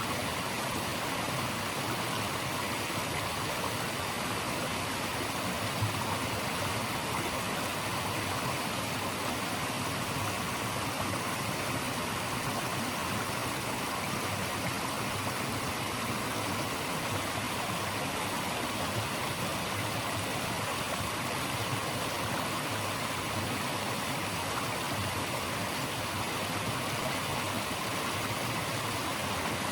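Running water rushing steadily, an even unbroken hiss with no change in level.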